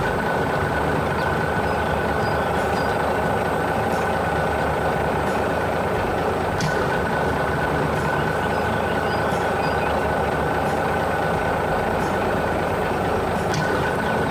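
Heavy vehicle engine running steadily, a dense unbroken noise with a steady whine over it.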